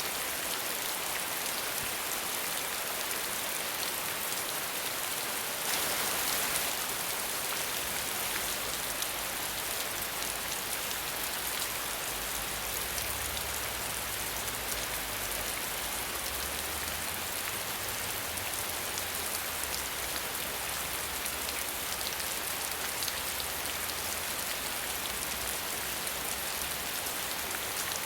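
Steady rain falling, a dense even hiss of many fine drops, with a brief louder swell about six seconds in.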